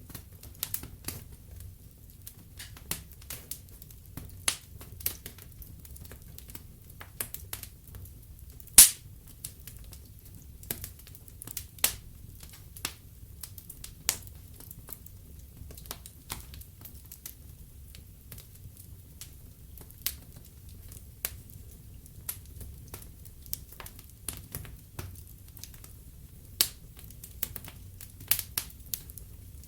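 Burning logs crackling in a fireplace: irregular sharp pops and snaps over a low rumble of the flames, with one loud pop about a third of the way through.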